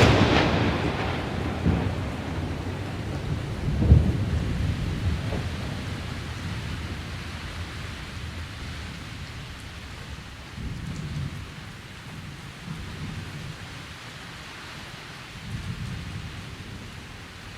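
Thunder over steady rain: a loud clap right at the start rolls off over several seconds, another rumble peaks about four seconds in, and fainter rumbles follow later.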